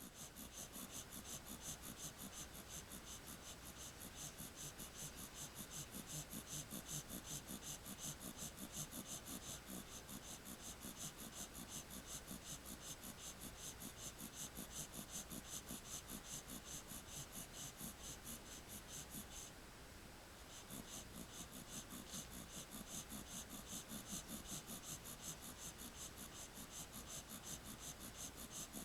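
Schnauzer puppy snoring softly in its sleep. A rapid, even high ticking, about four a second, runs alongside and pauses briefly about twenty seconds in.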